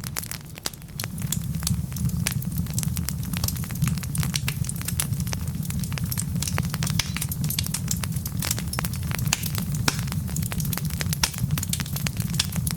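Wood logs burning in a fireplace, crackling with a dense stream of sharp snaps and pops over a steady low rumble of the flames.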